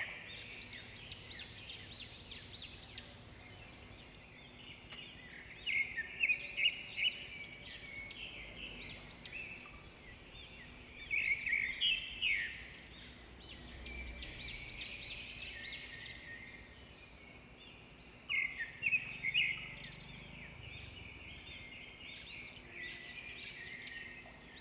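A bird singing loud phrases of rapid, high chirping notes, one phrase about every five or six seconds. A faint low rumble of a vehicle passes around the middle.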